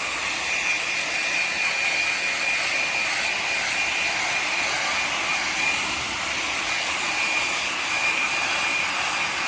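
Hair dryer blowing steadily, a constant airy rush with a thin high whine from its motor.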